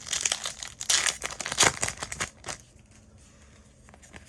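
Foil trading-card booster pack wrapper crinkling and being torn open, a dense crackling rustle for about two and a half seconds that then dies down to faint handling.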